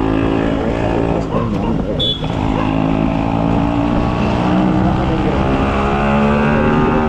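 Yamaha RX two-stroke single-cylinder motorcycle engine running under way; the note dips with a brief click about two seconds in, then the revs climb steadily.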